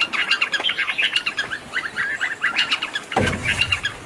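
Small birds chirping, with a fast run of short, high twittering notes. About three seconds in there is a brief low rushing noise.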